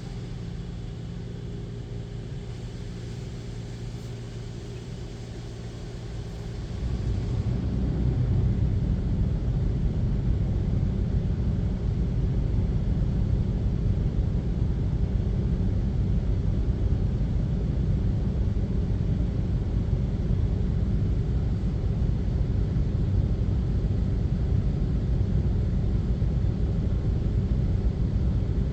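High-pressure water jets from a Mark VII Aqua Jet GTO-300 touch-free car wash hitting the car's body, heard from inside the cabin. A quieter steady hum gives way about seven seconds in to a much louder, dense rumble of spray that holds steady.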